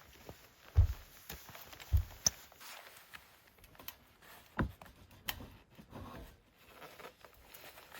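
Uneven footsteps crunching and thudding in deep snow, with a few heavier thumps and small crackles between them.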